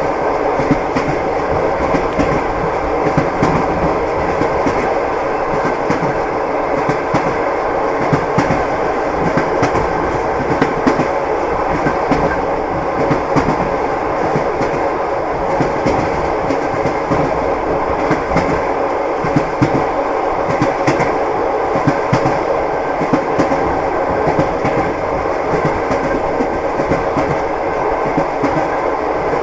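Train wheels clattering over rail joints, with the steady rumble of a moving railway carriage heard from inside, and frequent irregular clicks and knocks.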